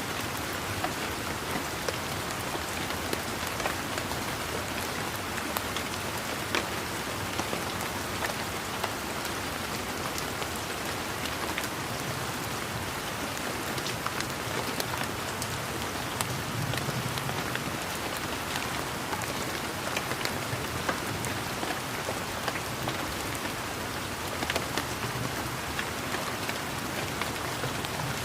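Steady rain pattering down, with the sharp ticks of separate drops striking throughout.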